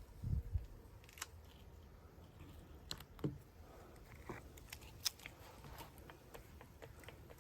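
Scattered light clicks and ticks from hands working on the drum shell, with a few low thumps just after the start.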